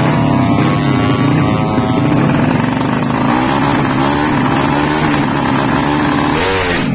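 Drag-racing underbone motorcycle engine revving hard. It holds a fairly steady high pitch for about three seconds, then is blipped up and down a few times, with one quick sharp rev near the end.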